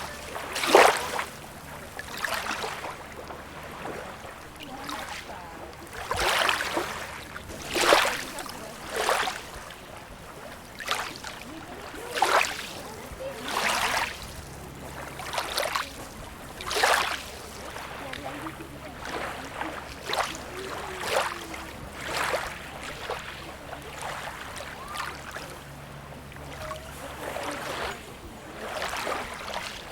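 Small sea waves lapping and splashing at the shoreline, a quick splash every second or two over a steady wash of water.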